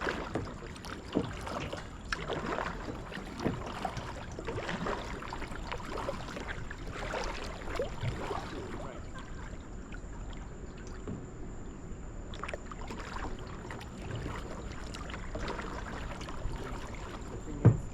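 Kayak paddling: paddle blades dipping and swishing through the water in irregular strokes, over a low rumble. A single sharp knock near the end is the loudest sound.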